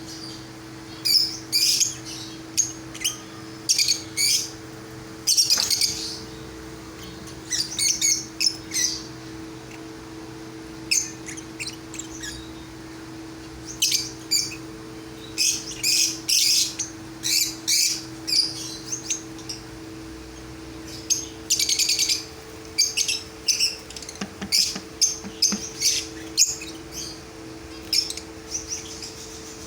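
Small aviary birds chirping and tweeting in short, repeated high-pitched bursts, now and then squawking, over a steady low hum.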